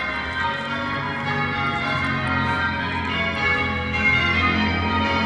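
Church bells ringing changes: a peal of several bells striking in an overlapping, ever-changing sequence.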